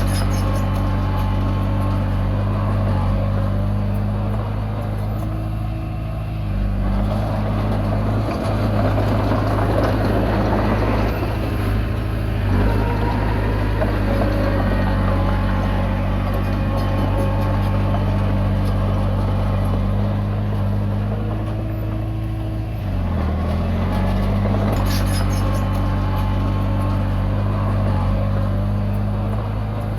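Komatsu D20P bulldozer's diesel engine running steadily while the dozer pushes soil. The engine note dips briefly and recovers a few times.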